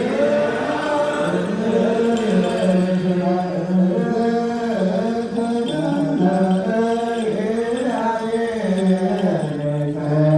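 Ethiopian Orthodox liturgical chant: a low male voice sings a slow melody in steps, ornamenting held notes with wavering turns.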